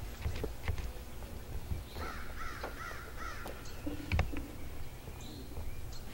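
A bird calling in the background, a quick run of about five calls about two seconds in. Around it, light knocks and clatter of wooden hive parts being handled, with one louder thump a little after four seconds.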